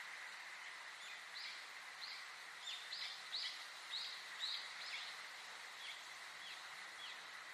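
A bird calling a run of short, high, repeated notes, about two a second, loudest in the middle and fading toward the end, over a steady natural background hiss with a constant thin high tone.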